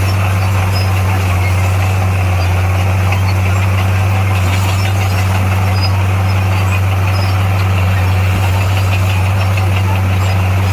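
Heavy diesel earthmoving machine engine running steadily, with a deep, unchanging hum.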